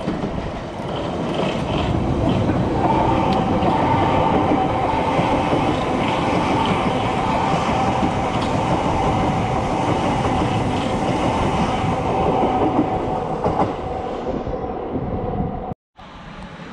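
South Western Railway class 455 electric multiple unit running past close by, its wheels clattering over the rail joints with a steady whine under the rumble. The sound fades over the last few seconds and cuts off abruptly near the end.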